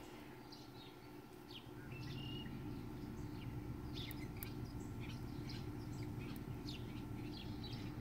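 Faint, scattered bird chirps, short and irregular, over a steady low hum.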